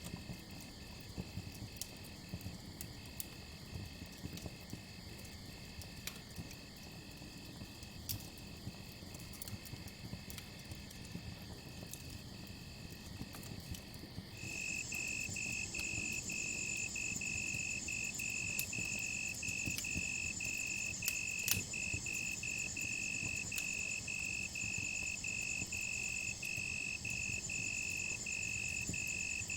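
Crickets chirping in a steady pulsing rhythm, joined about halfway through by a louder, higher continuous insect trill. Underneath, a campfire crackles with scattered pops, one sharper pop about two-thirds of the way in.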